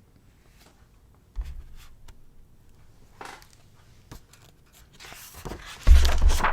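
Picture book being handled and a page turned: scattered soft paper rustles and clicks, a low thump early on, and the loudest rustling and a heavy thump near the end.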